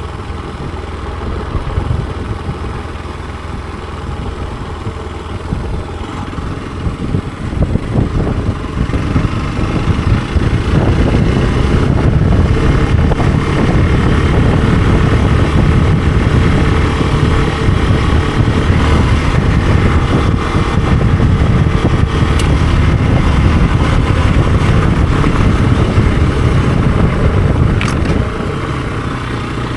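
Hero XPulse 200 4V's single-cylinder four-stroke engine running as the motorcycle is ridden. It is quieter and uneven at first, then runs louder and steadier from about a third of the way in, and eases back down near the end.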